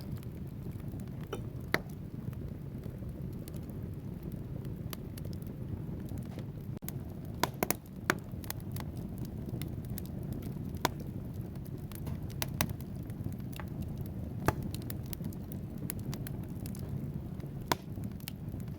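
Wood fire burning in a fireplace: a steady low rumble of flames with logs crackling and sharp pops scattered throughout, including a quick cluster of pops about eight seconds in.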